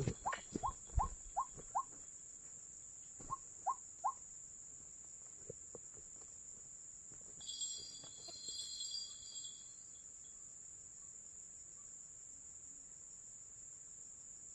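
A bird calling a quick run of short, rising notes, about five a second, then three more a couple of seconds later, over a steady high-pitched insect drone; a brief burst of high chirping comes in about halfway through.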